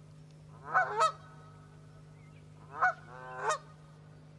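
Geese honking: a pair of loud honks about a second in, then a second burst of two or three honks around three seconds in.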